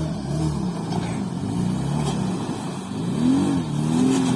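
An off-road vehicle's engine revving under load, its pitch swelling up and falling back, most strongly about three and four seconds in.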